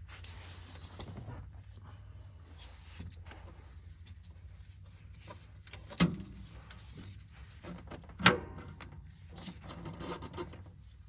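Hand-tool and parts handling during a hydraulic hose repair: rustling and scraping, with two sharp knocks about two seconds apart past the middle, over a steady low hum.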